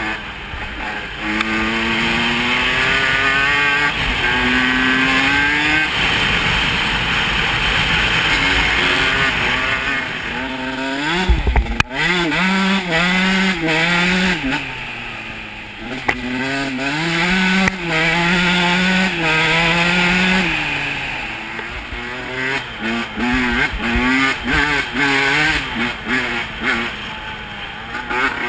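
Single-cylinder off-road engine revving hard under load, its pitch climbing and dropping again and again as the rider goes up and down through the gears. There is a sharp knock about twelve seconds in.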